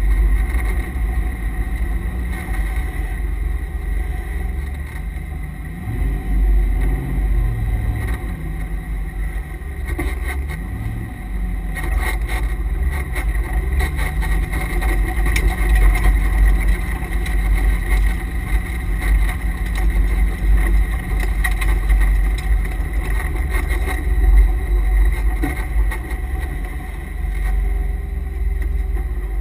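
Chevrolet C5 Corvette Z06's LS6 V8 heard from inside the cabin at low speed. The engine note rises and falls several times about a quarter of the way in, then holds steady. A steady whine from the transmission and differential coolers runs over it throughout.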